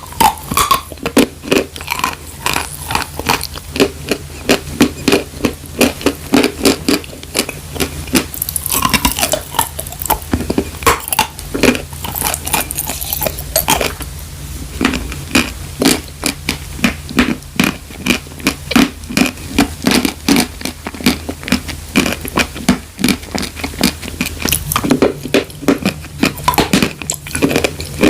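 A person biting and chewing dry chalk, loud crunches coming in quick succession about two to three a second, over a faint steady low hum.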